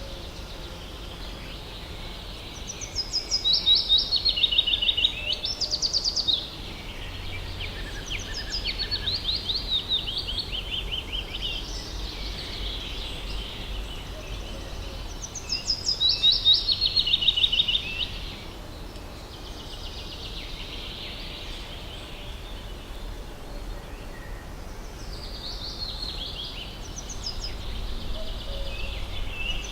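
Forest birds singing: one bird repeats a song of fast trilled notes stepping down in pitch three times, about every twelve seconds, with softer chirps and calls between the songs. A faint steady low rumble lies underneath.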